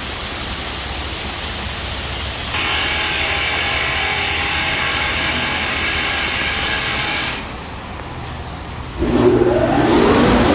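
Touch-free automatic car wash machinery: a steady hiss of spray, then a whining pump or motor for a few seconds. Near the end a blower motor starts and spins up with a rising whine.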